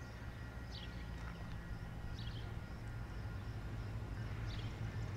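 Faint, steady low rumble of a distant approaching diesel train, growing slightly louder toward the end, with a few short bird chirps over it.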